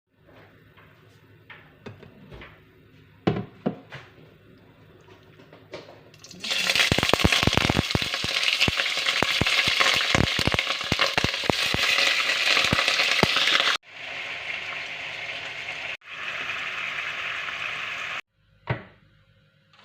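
Food frying in hot oil: a few scattered clicks and knocks, then about six seconds in a loud sizzle full of crackling pops starts suddenly. Later the sizzle goes on at a lower level, cuts off abruptly twice, and a single knock follows near the end.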